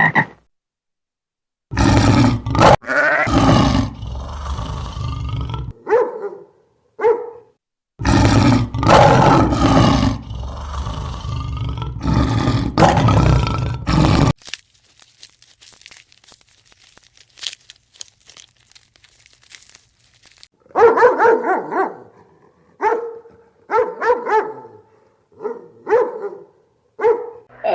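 A dog growling and barking: two long rough stretches of growls and calls, then a run of short barks about once a second near the end.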